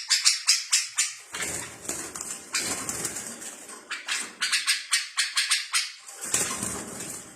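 Small songbirds chirping in fast runs of short, sharp, high notes, several a second. A lower, fuller call comes in twice underneath, about a second in and again near the end.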